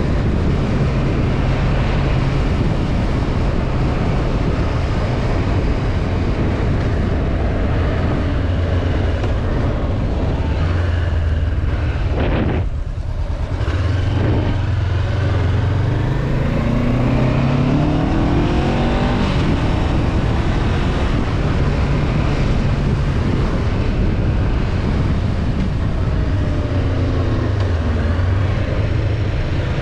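Honda CB500F's parallel-twin engine running under way, with wind rushing past. Around twelve seconds in the engine note briefly drops away, then it climbs in pitch as the bike accelerates from about sixteen seconds.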